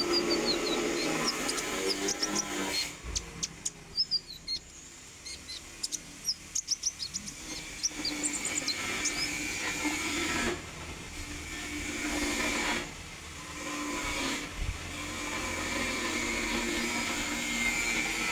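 Konin songbird singing in short, sharp, high chirps and quick twittering runs, some notes falling in pitch, over a steady background hiss and hum.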